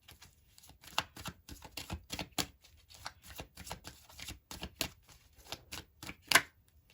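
A tarot deck being shuffled by hand: a run of quick, irregular card clicks and flicks, with one louder snap near the end.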